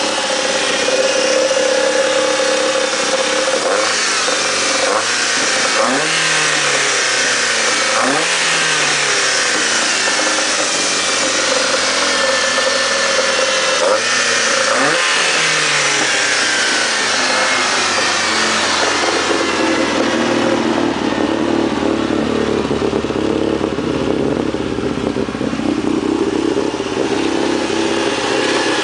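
VW Caddy pickup's 16-valve four-cylinder engine running on twin 45 mm Weber carburettors during its first start-up on them, the throttle blipped several times in the first half, each rev rising and falling back, then settling to a steadier idle.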